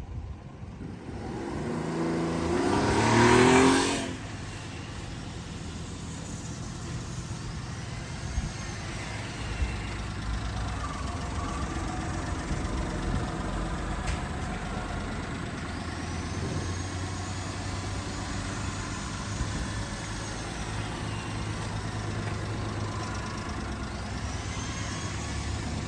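Honda Acty mini truck's small three-cylinder engine revving up briefly a few seconds in, then settling to a steady idle.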